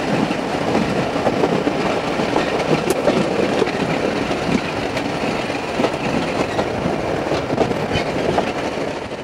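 Train running along the track, wheels clattering over the rails in a steady rumble. The sound cuts off abruptly at the very end.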